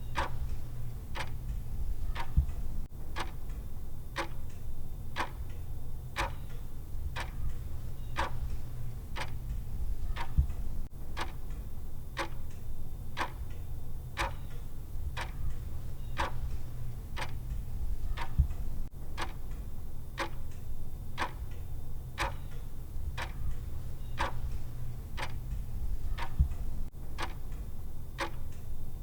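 Clock ticking, one even tick after another, over a steady low hum.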